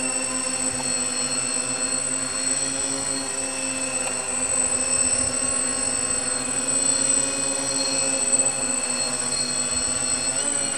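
Quadcopter with four inverted Altigator A3540 motors spinning Graupner 14x8 propellers, hovering in place: a steady, even drone of motors and props with a constant high whine above it, holding one pitch throughout.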